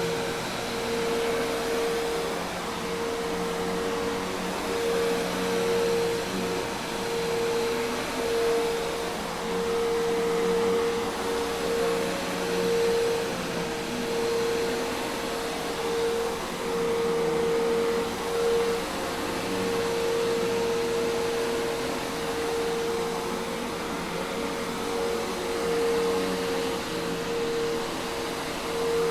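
Hoover Task Vac commercial vacuum cleaner running steadily: a rush of air with a constant motor whine that wavers slightly in level.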